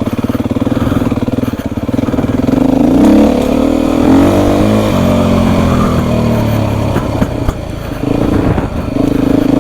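Beta 350 RR four-stroke single-cylinder dirt bike engine running under way, holding steady, then revving up and easing back off about three to five seconds in, with a brief dip near the end.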